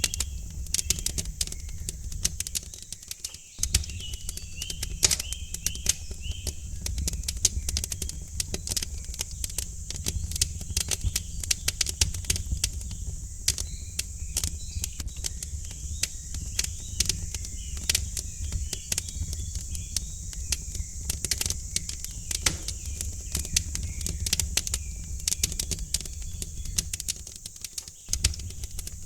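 Wood fire crackling in a fireplace, with dense sharp pops and snaps over a low steady rumble. Small birds chirp faintly behind it, about two to seven seconds in and again for a stretch in the middle.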